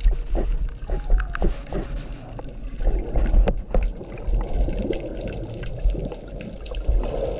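Water gurgling and sloshing, with many scattered sharp clicks and a steady low rumble underneath.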